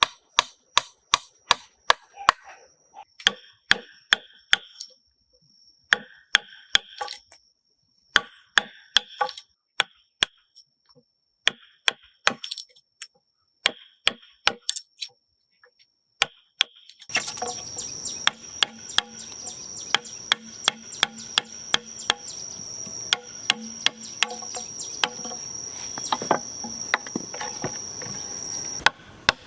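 Repeated sharp knocks of a tool striking wood, about three a second in runs with short pauses, over a steady high-pitched whine. About halfway through, a steady hiss and a low hum come in under the strikes.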